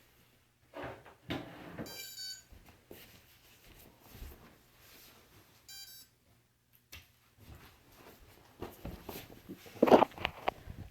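Two short electronic beeps about four seconds apart, typical of a drone's electronics after the motors stop, then a run of handling clicks and knocks near the end, the loudest about ten seconds in.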